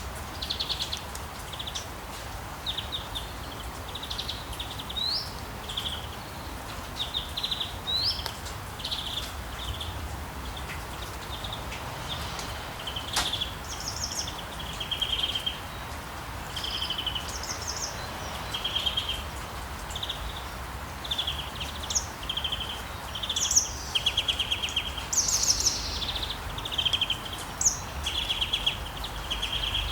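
Songbirds singing short, repeated trills and chirps, with a few quick upward-sweeping notes, over a steady hiss of rain and a low rumble. One sharp click about thirteen seconds in.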